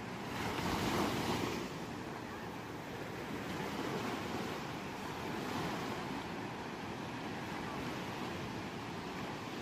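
Ocean surf washing onto a shore: one louder wave breaks about a second in, then softer surges follow.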